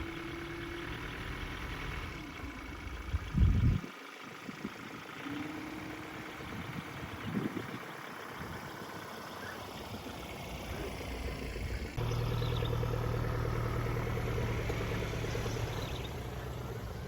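Pickup truck engine idling, with a loud thump about three and a half seconds in. About twelve seconds in, a cut brings a closer, steadier engine hum.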